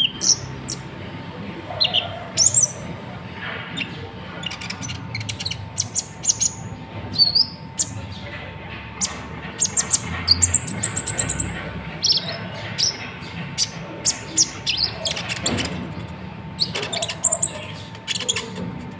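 A konin sunbird calling: rapid high chirps, sharp ticks and short trills, with a faint steady hum underneath.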